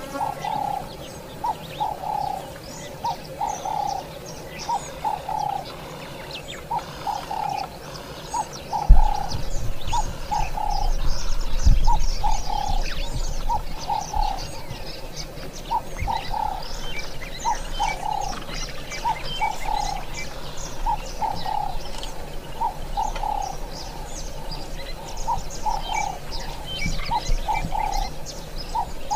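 Birds calling: a steady run of short, low repeated call notes, with higher chirps over them. A low thump comes about nine seconds in, followed by a low rumble that runs on under the calls.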